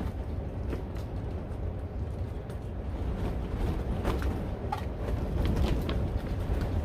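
Strong wind buffeting, a steady low rumble growing a little louder partway through, with scattered light clicks and creaks from the flexing cattle panel greenhouse and its plastic covering.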